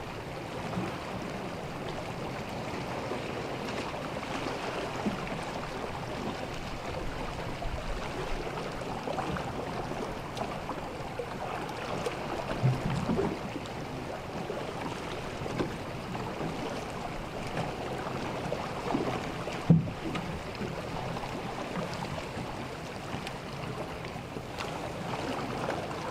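Calm sea water lapping and washing against the shore steadily, with a few short soft knocks, the sharpest about three quarters of the way through.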